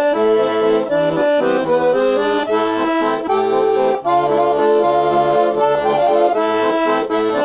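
Bayan (Russian button accordion) playing the instrumental coda of a slow song: a melody of held notes over steady bass chords.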